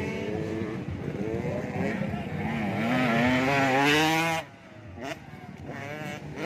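85cc two-stroke motocross bikes revving on the track, engine pitch rising and falling with the throttle. One bike climbs in pitch to its loudest point about four seconds in, then cuts off sharply as the throttle is chopped, with further short revs after.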